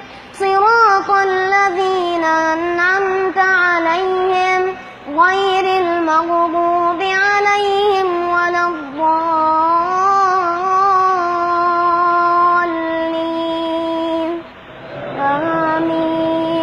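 A child's high voice chanting Quran recitation in the melodic tajweed style, holding long, drawn-out, ornamented notes. There is a short breath about five seconds in and a longer pause near the end before one last phrase.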